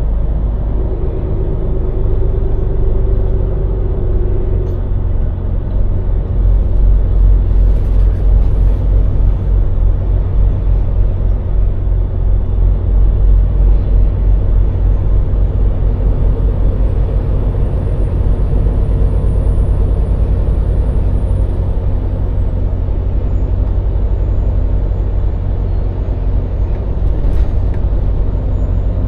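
Scania lorry's diesel engine and road noise heard from the cab, a steady low rumble that grows a little louder about six seconds in.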